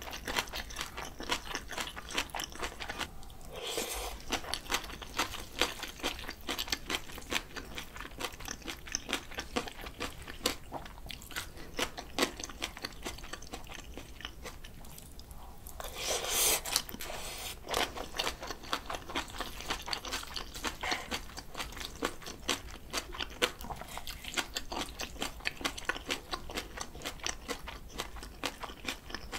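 Close-miked chewing and crunching of bibimbap mixed with fresh spring-cabbage kimchi (bomdong geotjeori) and julienned radish salad, in quick irregular crunches. Two louder, longer sounds come about 4 and 16 seconds in.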